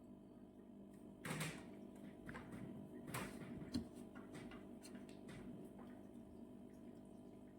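A faint steady hum of several constant tones, with a few scattered knocks and clicks, the two strongest about a second in and about three seconds in.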